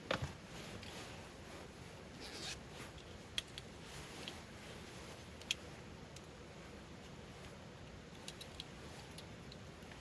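Faint scattered clicks and light taps of small objects being handled, over a steady faint hiss.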